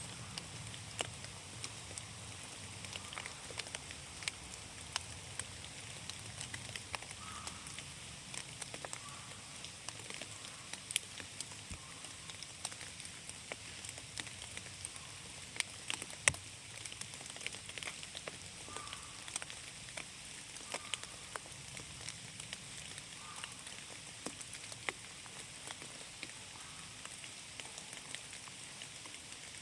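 Rain falling in a forest: a steady patter with many irregular, sharp drop ticks.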